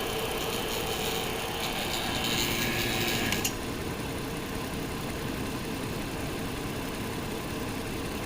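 Rotary vane vacuum pump running while evacuating a car's A/C system, its hiss growing louder about a second and a half in, then shut off abruptly about three and a half seconds in. A lower steady background rumble goes on after it stops.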